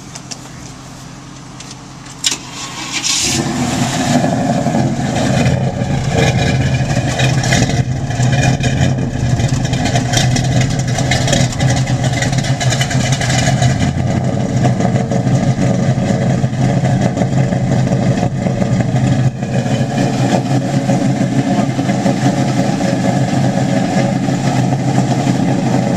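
1972 Chevrolet C10 pickup's cammed V8 being started: a click about two seconds in, then the engine catches and runs fast on a cold start. About fourteen seconds in it drops to a lower, lumpy idle through its H-pipe dual exhaust.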